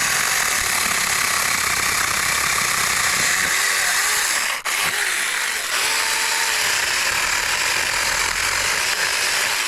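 Supstable 6-inch cordless mini chainsaw running and cutting through a branch, its motor pitch dipping now and then under load. It stops for a moment about four and a half seconds in, then runs on.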